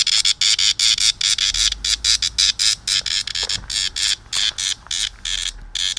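A cicada held in the hand giving a loud, harsh buzzing distress call in rapid stuttering pulses, the protest it makes when picked up.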